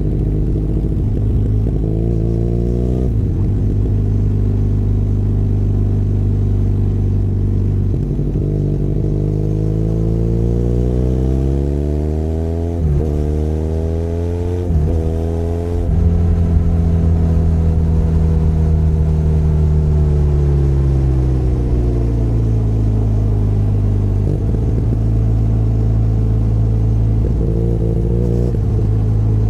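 Benelli Leoncino 500 Trail's parallel-twin engine heard from the rider's seat, running steadily, then climbing in revs with two brief breaks like gear changes around the middle, then the revs falling away and settling steady again.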